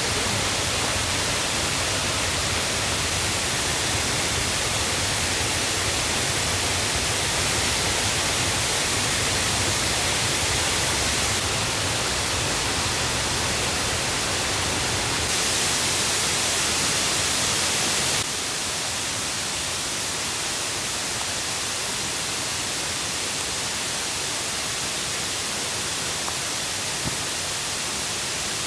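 Rain-swollen forest stream and waterfall rushing steadily, a loud, even roar of high water. Its level shifts abruptly a few times and drops noticeably about two-thirds of the way through.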